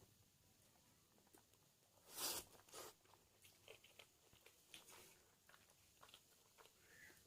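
Faint chewing and mouth sounds of a person eating biryani, with small scattered clicks and a louder crunch about two seconds in.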